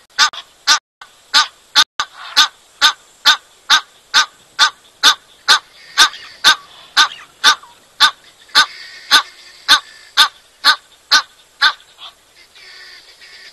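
A bird calls with short, sharp notes over and over, about two a second, then stops about a second and a half before the end.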